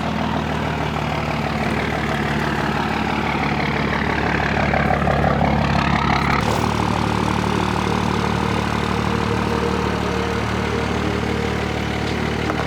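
Diesel pickup truck engine idling steadily, sounding healthy after a dyno pull. A faint whine rises and falls through the middle, and the engine's tone shifts slightly about six and a half seconds in.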